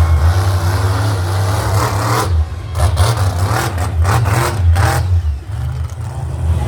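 Monster truck engine running with a deep, steady note and several surges of revving in the middle.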